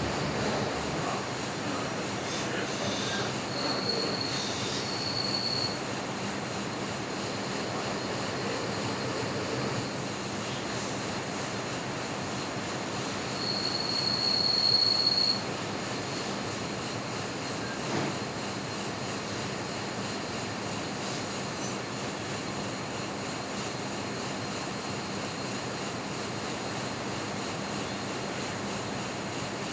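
Metal lathe running and cutting, a steady mechanical noise. A high-pitched squeal from the cut comes in twice: briefly about four seconds in, and louder for about two seconds near the middle. A single click follows a few seconds later.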